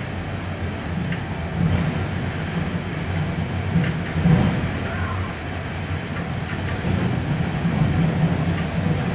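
Typhoon wind blowing in gusts: a steady low rumble that swells and eases, with scattered light ticks.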